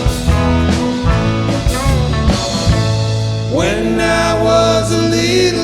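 Live country-rock band playing an instrumental break with drums, bass and guitar. A lead vocal comes in about two-thirds of the way through.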